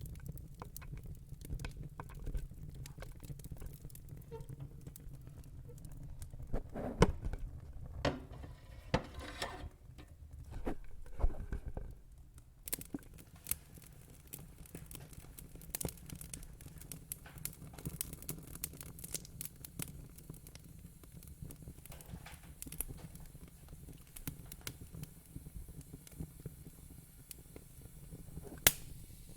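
Wood fire in a fire pit crackling: many small irregular snaps and pops over a low steady rumble, with a few louder pops scattered through it, the loudest about a quarter of the way in and near the end.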